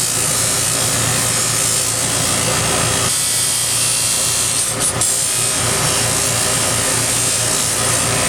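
Electric scroll saw running and cutting 3 mm brass plate, a steady rasping saw noise over the motor's hum, with a brief break a little past halfway.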